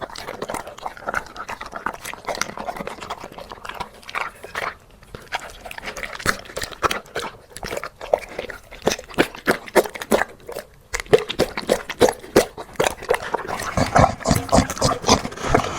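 A dog eating a soupy meal of mutton and mushrooms: quick, irregular wet chewing and smacking sounds. They grow louder and busier in the second half.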